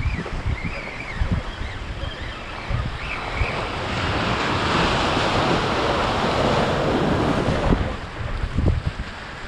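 Wind buffeting the microphone, with surf washing in: a wave rushes up about four seconds in, holds for a few seconds and drops away near the end.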